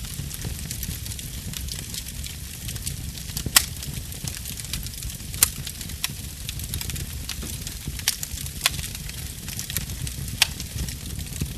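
Wood fire burning in a fireplace: a steady low rumble of flames under constant light crackling, with about five sharp, louder pops spread through.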